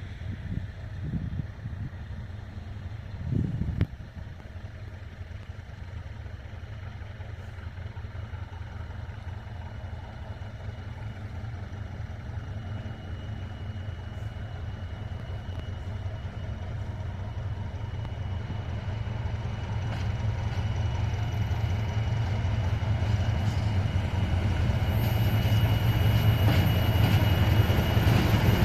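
SM42 diesel shunting locomotive's engine running with a steady low rumble that grows gradually louder, a few knocks in the first four seconds and a faint high whine coming in later.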